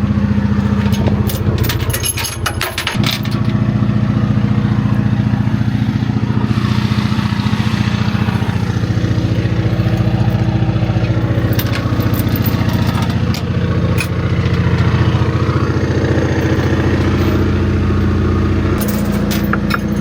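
Vehicle engine running steadily close by, its pitch shifting slightly about three seconds in and again near the end, with a few sharp clicks over it.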